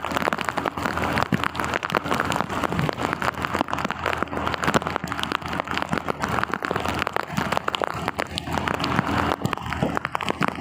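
Heavy rain falling, a dense patter of many sharp drop hits.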